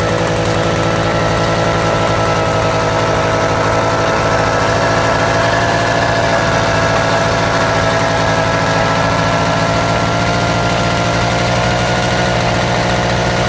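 Single-cylinder two-stroke DKW (Auto Union) stationary engine, a motorcycle-type engine with a governor, running steadily at an even speed.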